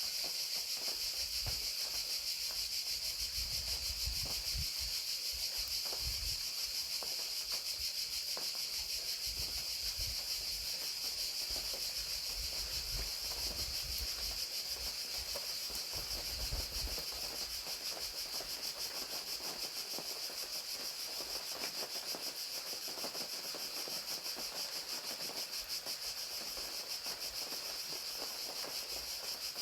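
Crickets chirping in a steady, high, continuous trill over the hiss of rain. Low rumbling comes and goes through the first half.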